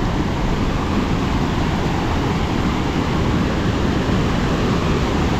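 Waterfall and stream water rushing loudly and steadily, the flow swollen after heavy rains.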